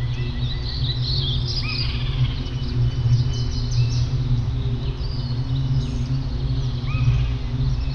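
Several birds chirping and calling all at once, with short arching calls repeating among quick high chirps, over a steady low hum.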